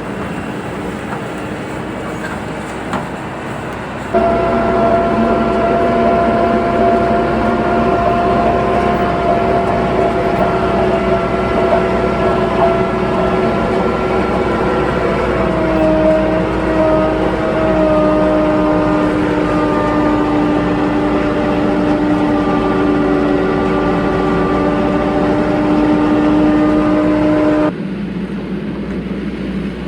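TYM 574 tractor's diesel engine running steadily under load. It gets louder about four seconds in, its note shifts slightly lower around the middle, and it drops back suddenly near the end.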